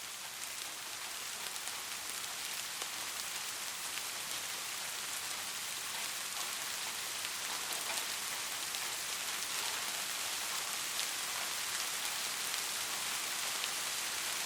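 Steady rain falling, with individual raindrops ticking on a hard surface over the hiss of the downpour, slowly growing a little louder.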